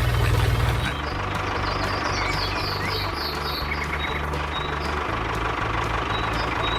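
The motor of a miniature model construction vehicle running steadily, easing a little about a second in.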